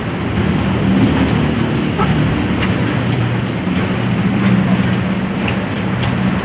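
A man chewing a mouthful of squid and rice, with a few small wet mouth clicks, over a steady loud rushing noise with a low rumble underneath.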